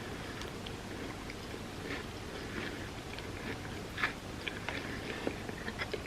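Close-miked chewing of a Biscoff ice cream sundae, with scattered small clicks of the mouth and food at an uneven pace.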